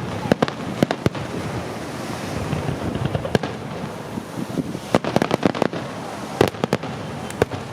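Aerial fireworks going off: irregular sharp bangs and crackles, some in quick clusters, over a steady background noise.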